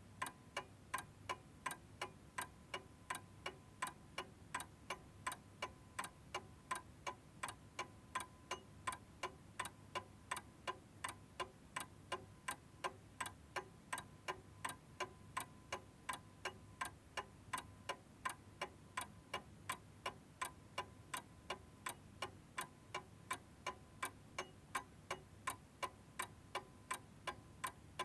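Domestic clock ticking at a steady, even rhythm of a few sharp ticks a second, with no chime.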